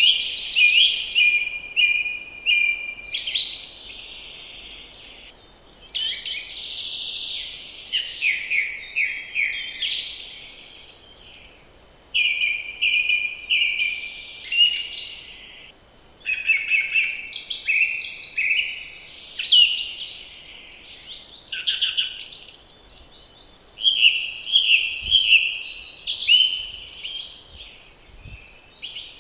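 Several songbirds singing in spring, their phrases of quick repeated high notes overlapping one another, over a faint steady background noise.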